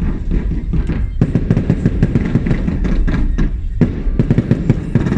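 Fireworks going off all around in a dense, rapid crackle of many overlapping bangs, with brief lulls about a second in and near four seconds.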